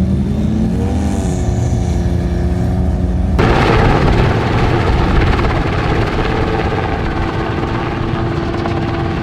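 A vehicle engine revs up and eases back. About three and a half seconds in, the sound changes abruptly to a louder, steady engine drone with rushing noise.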